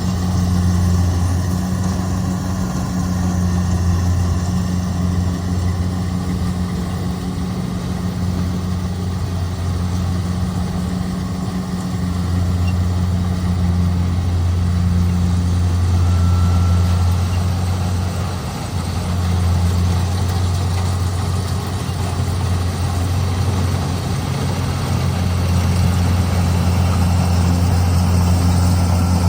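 Kubota DC70G Plus combine harvester's diesel engine running at a steady speed, a constant low hum that dips briefly about two-thirds of the way through.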